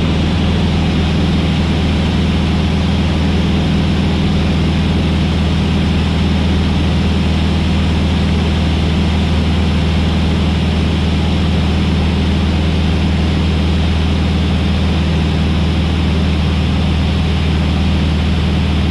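Van's RV-8's piston engine and propeller droning steadily, throttled back to about 13 inches of manifold pressure for the traffic pattern.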